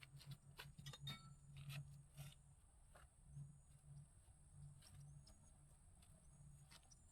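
Near silence: faint outdoor background with a few light scattered clicks and a low steady hum.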